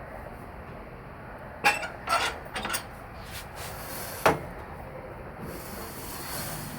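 Hard knocks and clicks from a Shopsmith Mark V 500 headstock and quill being worked by hand: a cluster of knocks, then one sharp click a couple of seconds later, and a hiss near the end.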